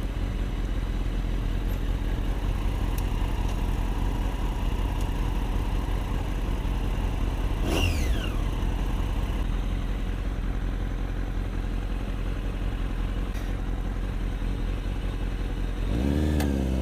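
Motorcycle engine running steadily while riding, with rushing wind noise. About eight seconds in, a brief falling whine sweeps down in pitch.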